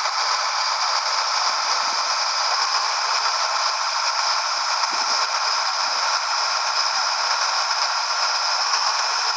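Steady, loud hiss with a faint rattle running through it, without any low rumble.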